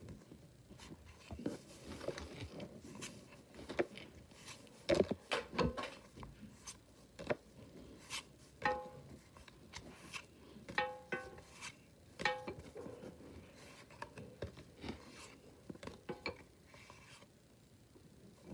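Pokémon trading cards being handled and flipped through one by one: scattered soft clicks and rustles of card stock. There are a few short pitched sounds around the middle.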